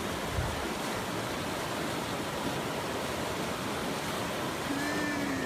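Steady rush of fast-flowing floodwater, an even noise with no engine or voice over it.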